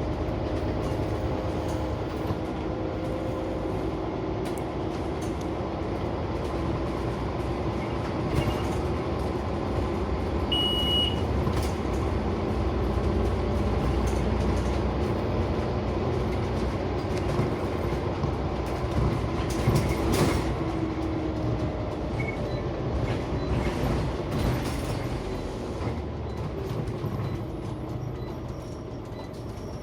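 Inside a moving Scania CN94UB Omnicity single-deck bus: the diesel engine running under way with steady road and body noise, getting louder in the middle and easing off near the end. A short high beep sounds about ten seconds in.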